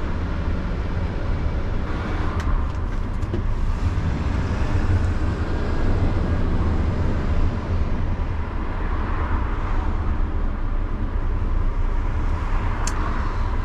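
A 2020 Mercedes-Benz Econic bin lorry on the move, heard from inside the cab: a steady, low engine and road rumble.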